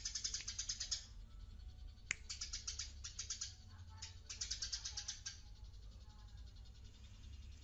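Eurasian tree sparrow chirping actively in rapid chattering bursts. There are three bursts in the first five seconds, then fainter chirps.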